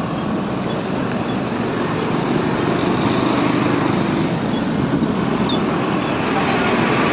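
Steady, even rushing noise of road traffic in heavy rain.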